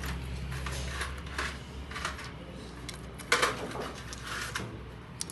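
Scattered metallic clinks and knocks, like tools or metal parts being handled, with one louder knock about three seconds in, over a low steady hum that fades out partway through.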